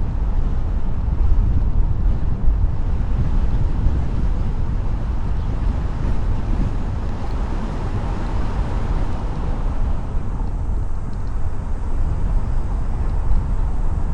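A car driving along a road: a steady rumble of road and wind noise, heaviest in the low end.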